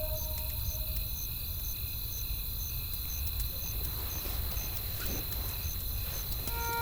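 Night-woods ambience: a crackling campfire with a low wind rumble, a cricket chirping about twice a second and a steady high insect trill. A held music note fades out in the first second, and soft music notes come back near the end.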